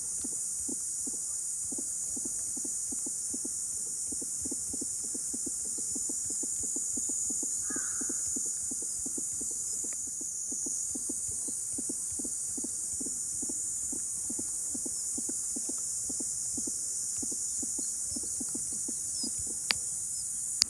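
Summer cicadas droning steadily in a high, even pitch, with a low pulsing about three or four times a second underneath. A single sharp click near the end.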